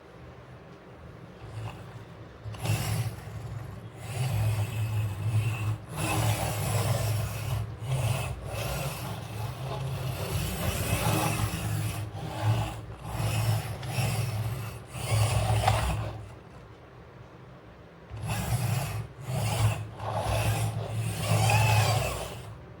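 Plastic toy vehicles pushed and rolled across a hard surface, their wheels rubbing and scraping, in several stretches of a few seconds each with short pauses between them.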